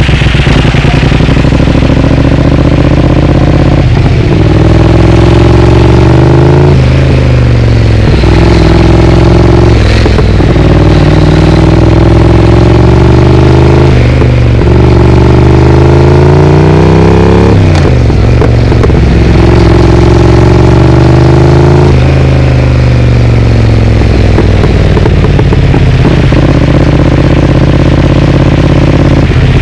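Triumph Speed Twin's parallel-twin engine through a Vance & Hines exhaust, pulling up through the gears: the pitch climbs and drops back at each of four upshifts, a few seconds apart. Then it eases off with the pitch falling, and settles to a steady note.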